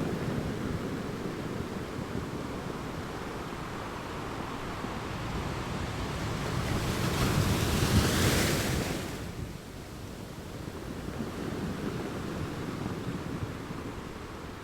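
Sea waves washing, with wind on the microphone; the wash swells to its loudest about eight seconds in, then drops off sharply.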